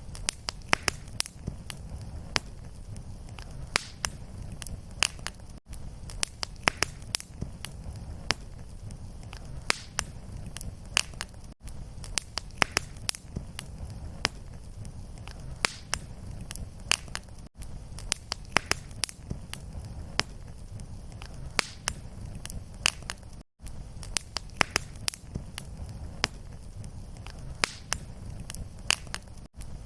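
Wood fire in a fireplace crackling, with many sharp pops over a steady low rumble of the flames. The sound cuts out for an instant about every six seconds, where the recording loops.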